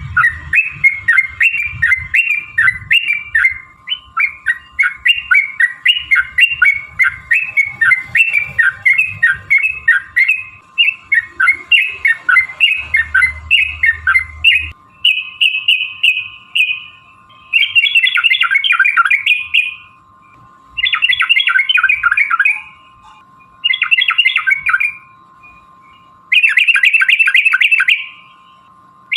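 Yellow-vented bulbul (trucukan) calling: a quick run of bubbly, repeated chirping phrases for about half the time, then a few separate bursts of fast, rattling chatter, each about two seconds long. A faint steady hum runs underneath.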